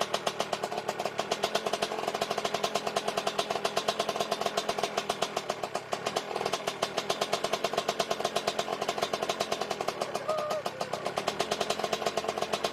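Yamaha Blaster's single-cylinder two-stroke engine running on its first start after a full rebuild, a fast, even putter that dips briefly about halfway through.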